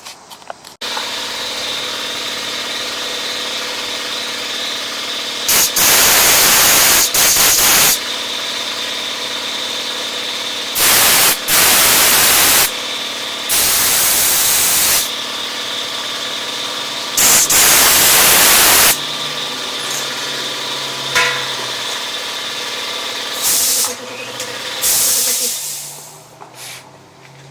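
Air compressor running steadily, with four long blasts of compressed air from a blow gun and two shorter ones near the end, blowing out a clogged carburetor main jet. The compressor stops near the end.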